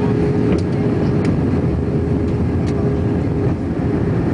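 Airbus A321 airliner in flight on approach: a steady, loud low roar of engines and airflow, with a faint steady hum that fades out about three seconds in.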